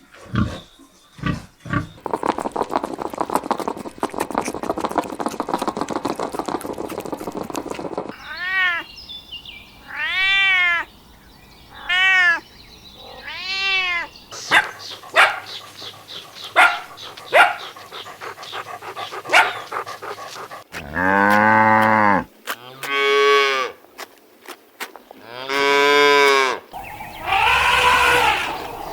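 Farm animals calling: a run of four short, high cries that rise and fall, then several longer, deeper calls like cattle lowing near the end, with clicks and a noisy stretch before them.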